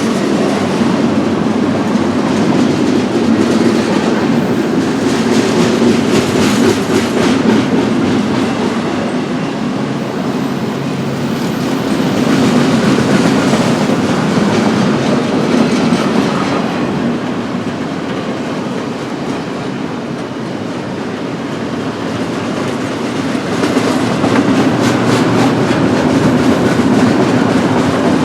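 Freight cars of a BNSF double-stack intermodal train rolling past, the wheels clicking steadily over the rail joints, the sound swelling and easing a few times as the cars go by.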